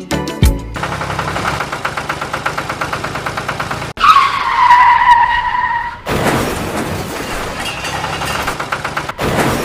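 Small power tool at work, heard in short cut-together takes: a fast, even rattle, then a high whine for about two seconds that sags slightly in pitch as it bites, then rougher grinding noise.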